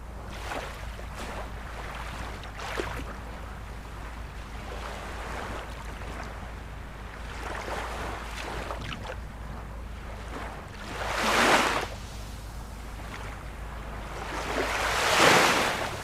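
Ocean surf washing steadily, with two louder waves swelling and breaking, one about two-thirds of the way through and one near the end, over a steady low rumble.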